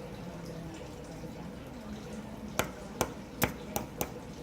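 Five sharp clicks of small hard objects in the second half, over a steady low background hum.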